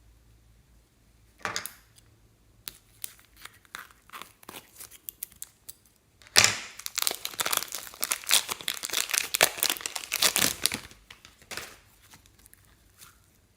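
Slime being worked by hand: scattered sticky clicks and pops, then from about six seconds in a dense run of crackling and crinkling lasting about five seconds, with a few more pops near the end.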